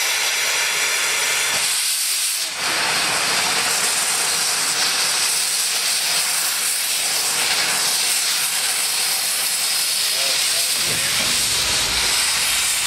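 Narrow-gauge steam locomotive venting steam: a loud, steady hiss with a brief dip about two and a half seconds in.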